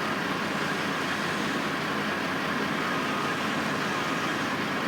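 Steady, unbroken din of construction-site machinery and vehicle engines running, with a faint steady whine near the top of the noise.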